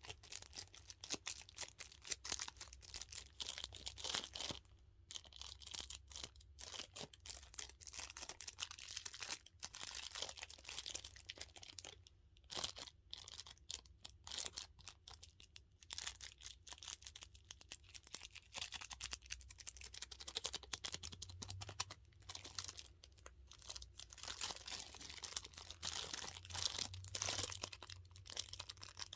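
Close-up crinkling and crackling as a dumpling-shaped squishy toy and its plastic are squeezed and handled: dense, irregular small clicks with a few brief pauses.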